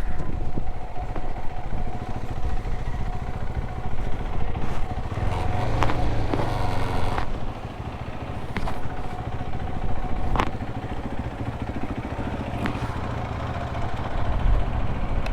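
Motorcycle engine running at low speed while pulling in to park, a steady low rumble with a few sharp clicks or knocks along the way.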